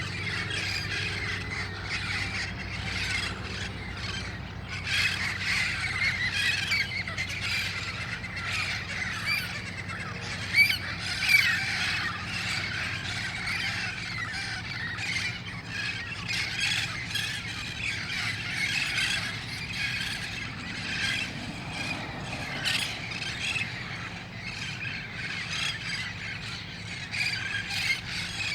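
A flock of wild parrots squawking and screeching without pause, many birds calling over one another, with two louder calls about ten and eleven seconds in.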